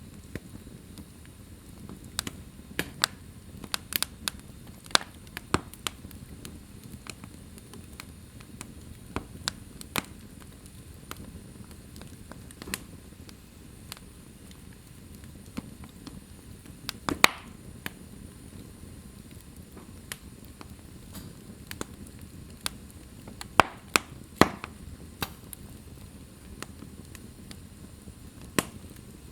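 Wood fire crackling in a fireplace: irregular sharp pops and snaps over a low steady hiss of burning, with a few louder snaps.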